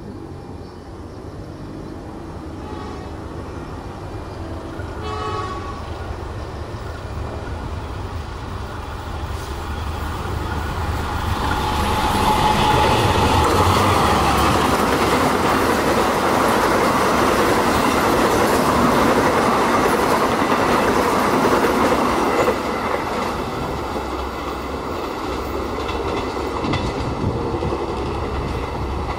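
A CC 203 diesel-electric locomotive hauling a passenger train approaches, with two short horn sounds a few seconds in. The noise of the engine and the wheels on the rails grows over about ten seconds, is loudest as the train passes close by, then eases off as the coaches roll away.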